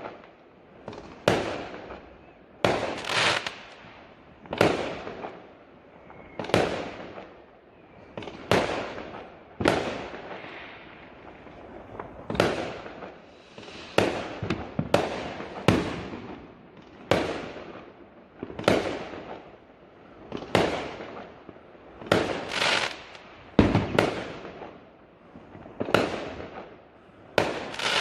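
Fireworks going off: a long run of sharp bangs, roughly one every one to two seconds, each dying away in a short echoing tail.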